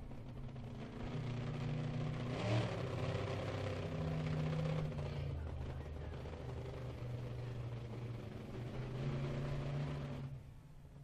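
Monster truck engine revving as the truck drives off, its pitch rising and falling several times. It quietens near the end.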